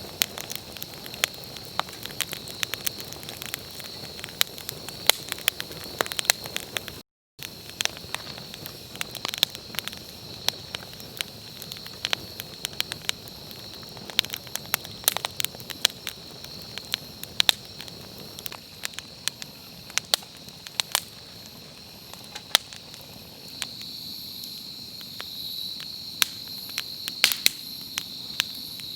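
Wood campfire crackling, with frequent sharp irregular pops, over a steady high trilling of insects.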